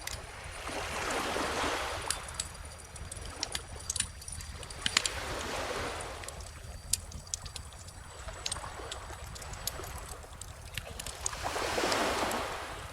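Wood bonfire crackling with frequent sharp pops over gentle ocean waves washing in. Three slow swells of surf, the last and loudest near the end.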